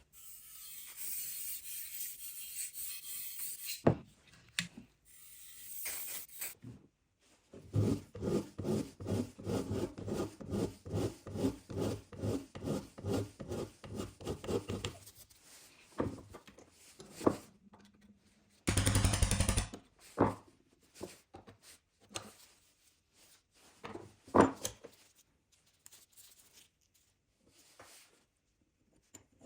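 Hand rubbing with an abrasive, the kind of scrubbing done to take rust off an antique swage shear. It starts as a hiss, then becomes back-and-forth strokes at about three a second, with one loud burst of noise a little past the middle and scattered knocks afterwards.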